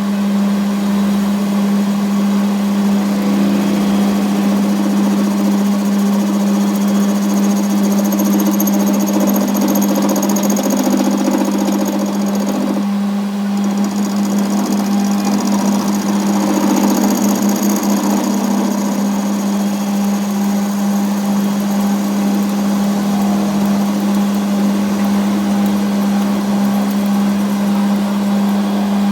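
A machine running steadily with a strong, even low hum and faint high whine, dipping briefly about halfway through.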